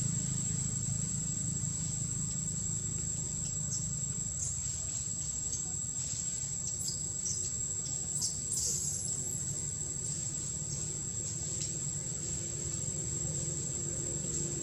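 Steady high insect drone over a low rumble of outdoor background, with a few brief, faint high-pitched squeaks about four seconds in and again around seven to nine seconds in.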